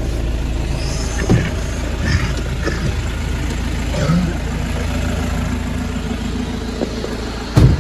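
Car engine running, heard from inside the cabin as a steady low rumble, with a few light knocks and one loud thump near the end.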